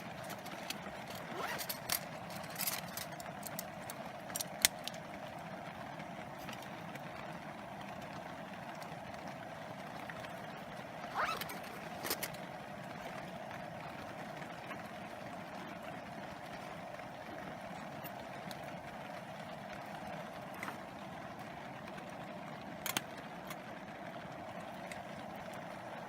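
Steady hiss of rain falling around a tarp, with scattered sharp clicks and pops, clustered in the first few seconds and again about eleven seconds in.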